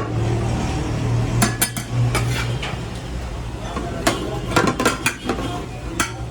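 Metal clinking and clattering: a couple of sharp knocks about a second and a half in, then a quicker run of them from about four seconds in, over a steady low hum.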